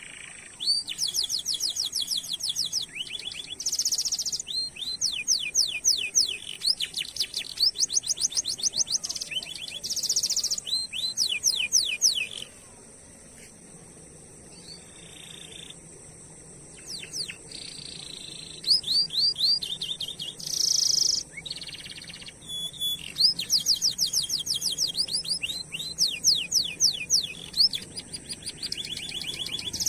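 Domestic canary singing long rolling trills: fast runs of repeated high whistled notes. There is a pause of a few seconds near the middle before the song starts again.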